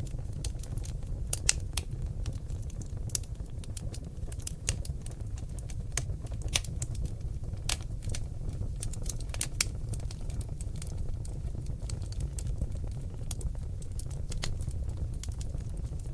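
Seasoned oak logs burning in a fireplace, crackling with irregular sharp pops several times a second over a steady low rumble of the flames.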